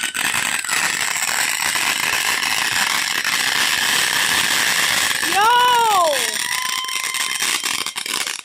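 Fireworks crackling rapidly and densely over a steady hiss. About five seconds in, a pitched sound rises and falls for about a second.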